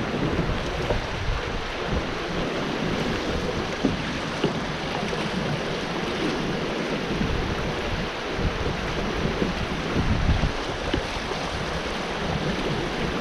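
Rushing whitewater of a river rapid heard from a kayak: a steady wash of noise, with wind rumbling on the microphone and a few brief thumps.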